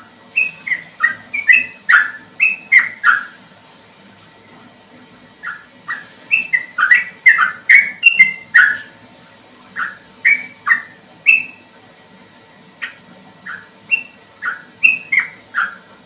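Yellow-vented bulbul (trucukan) singing: quick runs of short, clear, downward-slurred whistled notes, coming in loose bursts with brief pauses between them.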